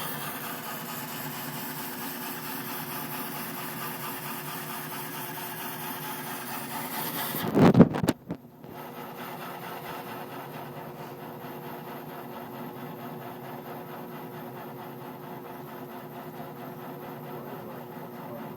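Hardinge lathe running steadily while roughing out a large hub spacer, a constant machine hum with a fixed tone. About eight seconds in the sound swells loudly, breaks off for a moment, then the lathe runs on a little quieter.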